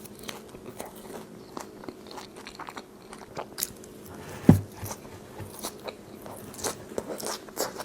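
Close-miked chewing of In-N-Out fries: wet mouth sounds and many small crisp crunches, with one louder bite about halfway through.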